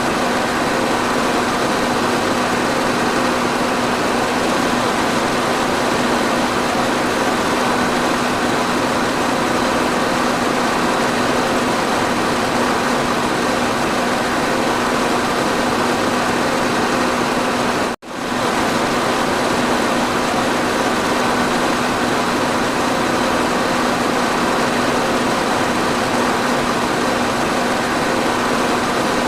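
Electric fan running steadily: a constant rush of moving air with a steady low motor hum. The sound cuts out for a moment once, past the middle, then carries on unchanged.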